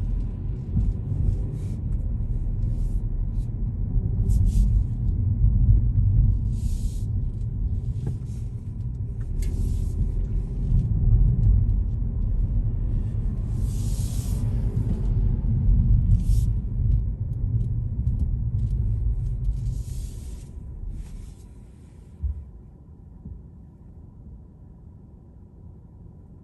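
Low, steady rumble of a car driving, road and engine noise, with short hissing swells now and then. About three-quarters of the way in it dies down to a faint hum, broken by a single brief knock.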